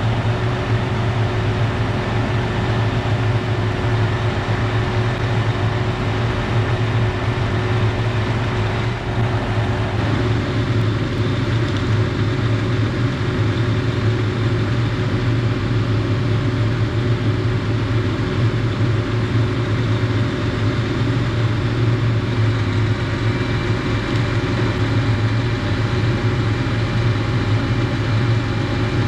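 An engine running steadily at idle, a loud low drone with a faint steady tone above it; its sound changes slightly about ten seconds in.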